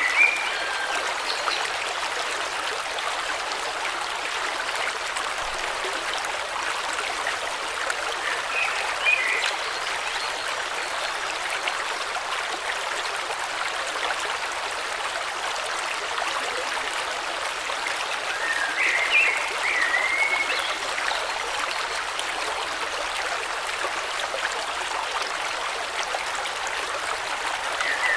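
Steady rush of a flowing river. A few short bird chirps come through over the water at intervals, most clearly about two-thirds of the way in.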